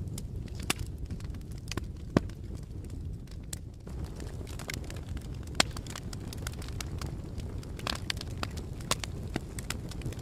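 Campfire burning: a steady low rumble of flames with frequent sharp crackles and pops from the burning wood. Two louder pops come about two seconds in and about five and a half seconds in.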